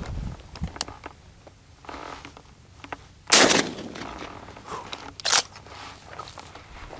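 Two shotgun shots at doves: a loud report about three seconds in, and a shorter, quieter shot about two seconds later.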